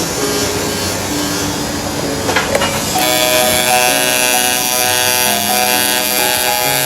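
Rough, steady noise of metalwork tools, with a few sharp clicks a little before halfway. Background music with held notes then takes over for the rest.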